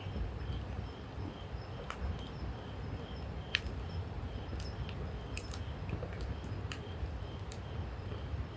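Wood campfire burning, giving off scattered sharp crackles and pops over a low steady rumble. A faint high chirp repeats about twice a second in the background.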